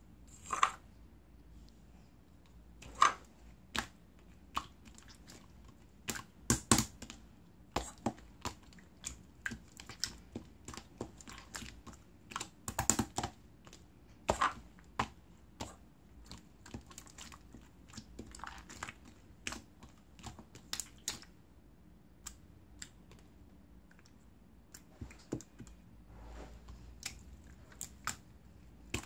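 Slime being squished and pressed by hand, giving irregular sticky clicks and pops, sometimes in quick clusters.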